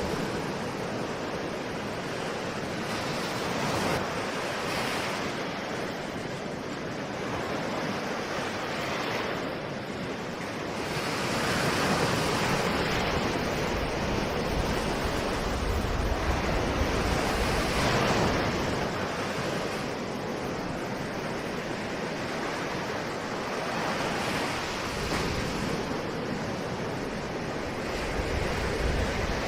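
Ocean surf: waves breaking and washing ashore in a continuous rushing wash, swelling louder about a third of the way in and easing off again.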